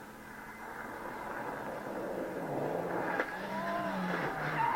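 Rally car engine growing steadily louder as it approaches, its revs swelling and dropping back a few times in the second half.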